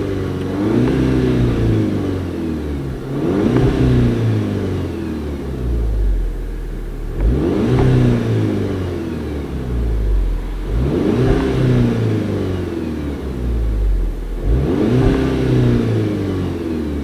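VW Golf 6 GTI's turbocharged 2.0 TSI four-cylinder engine on its stock exhaust, revved about five times, each rev rising quickly and sinking back more slowly.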